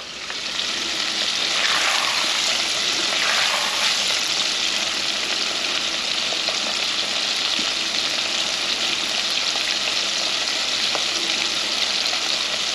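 Shrimp deep-frying in hot oil: a steady sizzle with small crackles, swelling over the first second and then holding level.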